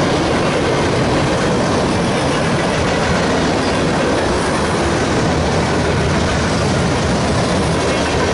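A train running past, with a loud, steady noise of its wheels on the rails.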